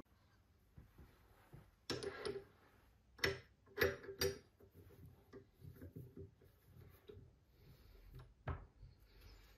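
Scattered light knocks and clicks of hard objects being handled, loudest in a cluster of four or so between about two and four and a half seconds in, with another single knock near the end.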